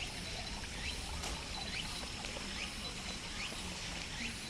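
Wooded stream-valley ambience: cicadas singing with a thin steady high tone over the steady rush of flowing water, and a short rising chirp repeating a little more than once a second.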